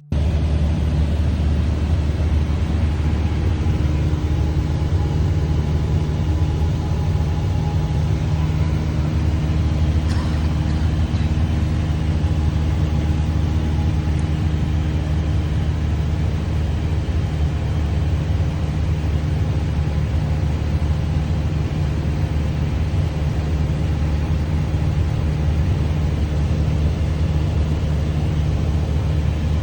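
Small single-engine piston airplane's engine and propeller running with a steady, unchanging drone.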